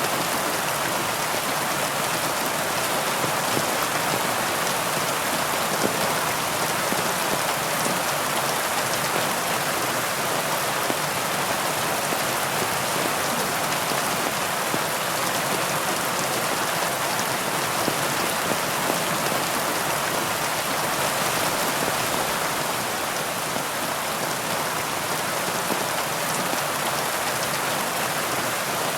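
Heavy rain falling steadily on leaves: an even, dense hiss of countless small drops.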